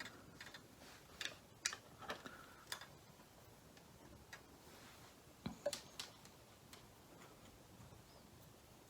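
Faint, scattered small clicks and taps from handling the small switch module and tools on a workbench: several in the first three seconds, a short cluster at about five and a half to six seconds, then quiet background.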